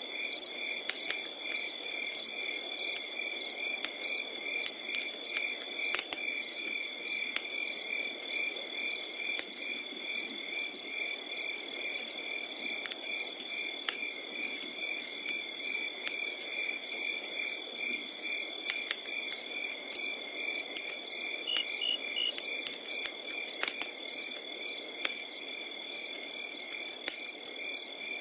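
Crickets chirping in a steady, regular rhythm over a continuous high insect trill, with a wood fire crackling underneath in scattered sharp pops and a low steady hiss.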